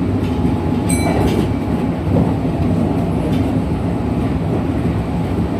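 Kintetsu 1233 series electric train running, heard from inside the car: a steady rumble of wheels on rail and traction motor, with a short high ping about a second in. This set is known for an unusual running noise compared with a normal 1233 series.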